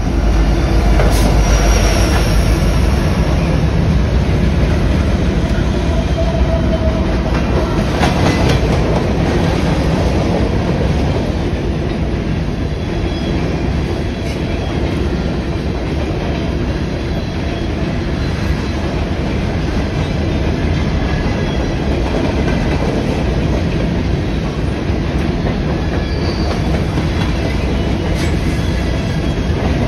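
Norfolk Southern freight train passing close by. Its diesel locomotives rumble past first, then a long string of covered hopper cars rolls by with a steady rumble and clatter of steel wheels on the rails, with a couple of sharp clanks.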